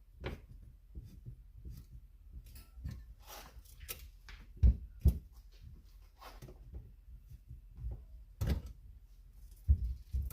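Clicks and knocks of hand work on a chainsaw bar and chain being refitted, with a few sharper thumps about halfway through and near the end.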